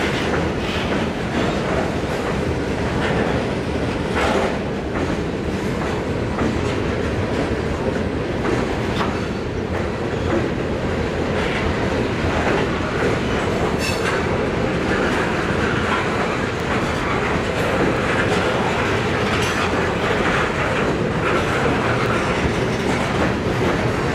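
Freight train of covered hopper cars rolling past close by: steady rumble of steel wheels on rail, with occasional clacks as the wheels cross rail joints.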